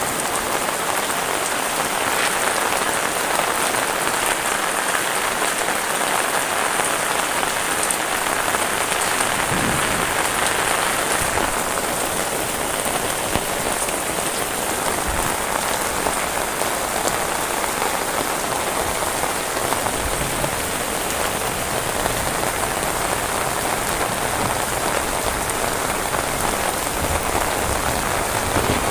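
Heavy rain falling steadily, an even dense hiss of drops on surfaces.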